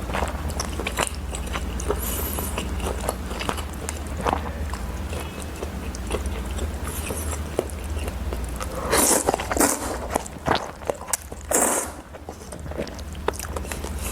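A person eating close to the microphone: biting and chewing, with crisp crunches and small clicks. A few louder bursts of noise come about two-thirds of the way through.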